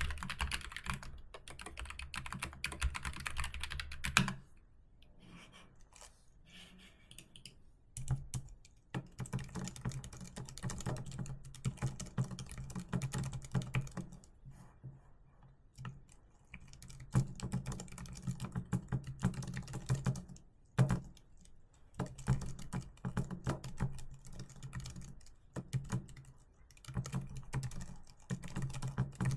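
Typing on a computer keyboard: steady runs of key clicks broken by a few short pauses, with the sound of the keystrokes changing about four seconds in.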